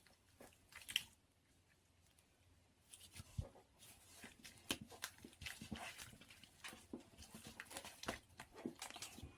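Pink slime being kneaded together with cloud slime by hand: soft squishing with many small clicks and pops, sparse at first, then frequent from about three seconds in.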